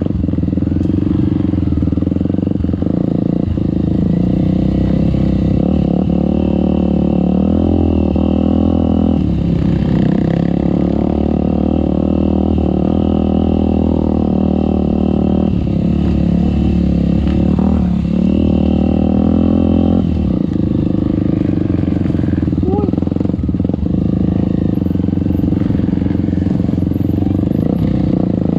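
Off-road trail motorcycle engine running under load, its pitch rising and falling with the throttle several times, with some clatter.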